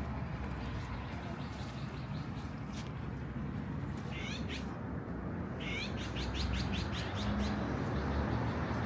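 High-pitched animal calls: a short call about four seconds in, then a quick run of about eight notes, over a steady low rumble of city background noise.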